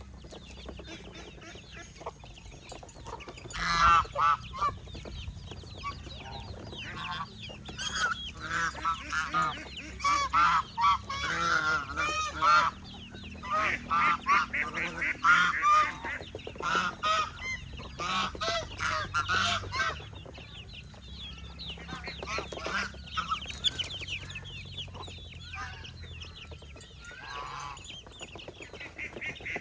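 A flock of domestic geese honking, with chickens clucking among them: many short overlapping calls, busiest in the middle and thinning out near the end.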